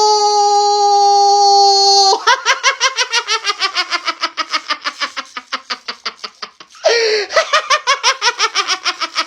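A high-pitched voice holds a long, steady 'ooh' for about two seconds, then breaks into a fast, falling run of laughter. The laughter starts again about seven seconds in.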